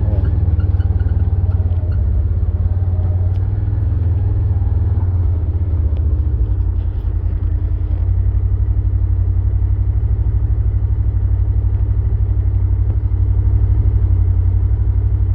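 Tractor running steadily while topping grass, a loud deep engine drone.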